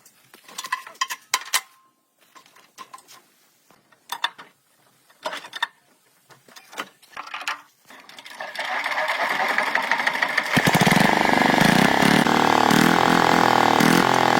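Scattered metallic clicks and knocks, then about eight seconds in an old tractor engine turns over and catches, running loudly with its pitch rising and falling.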